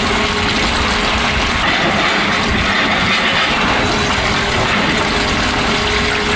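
Excavator working, a loud, steady mechanical din from its engine and hydraulics with a faint steady hum.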